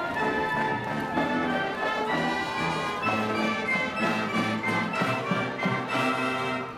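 Marching band playing a tune, brass instruments carrying the melody in held notes over drum hits.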